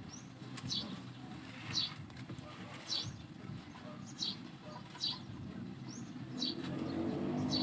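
A bird chirping over and over, one short high chirp roughly every second, over a low background rumble that grows louder near the end.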